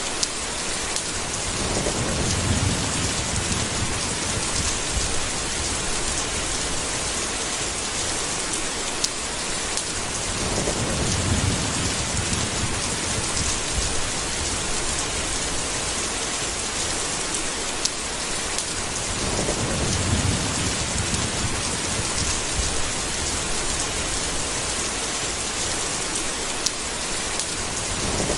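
Steady heavy rain, with low rolling thunder swelling and fading three times, roughly every nine seconds. A few single sharp ticks of drips stand out above the rain.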